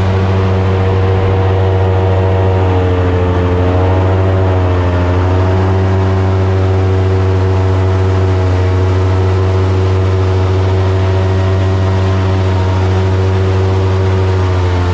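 Boat engine running at a steady speed, its pitch dipping briefly and recovering about three to five seconds in.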